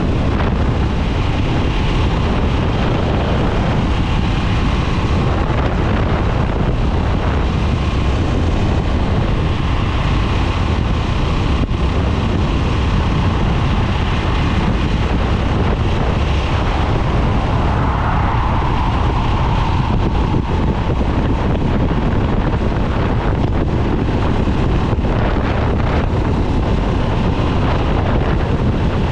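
2022 Harley-Davidson Nightster's liquid-cooled Revolution Max 975 V-twin running steadily while the motorcycle is ridden, heavily mixed with wind noise on the microphone.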